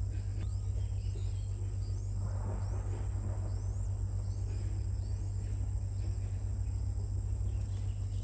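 Outdoor ambience: a steady low rumble with faint, short rising high chirps repeated about once a second, over a thin steady high-pitched insect-like tone.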